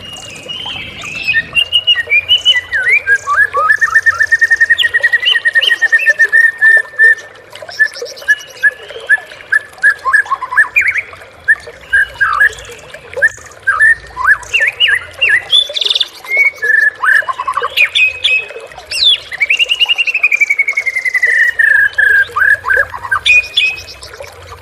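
White-rumped shama (murai batu) in full, non-stop song: a loud, varied run of whistled notes, sharp chips and rapid trills. It includes a long even trill early on and a long trill that falls in pitch near the end.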